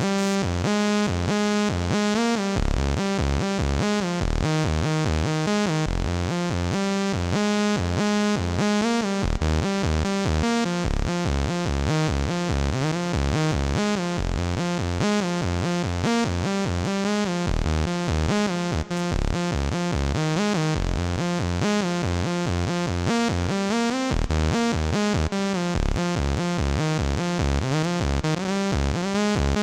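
IK Multimedia UNO Synth Pro X analog synthesizer playing a sequenced pattern of rapid repeating notes with a strong bass line, the pitches stepping and now and then gliding.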